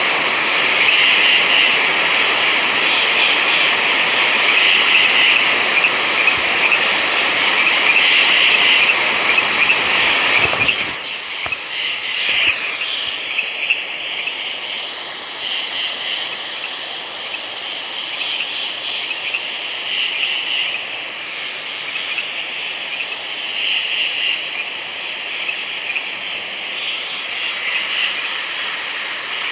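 Night chorus of frogs: calls in a high band repeating every second or two over a steady hiss. About ten seconds in, the lower rushing noise drops away abruptly and the chorus goes on a little quieter.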